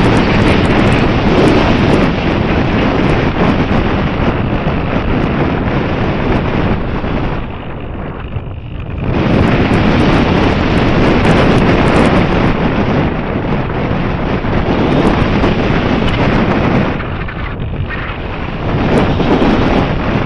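Strong wind buffeting the microphone in a loud, continuous rumble, easing briefly twice.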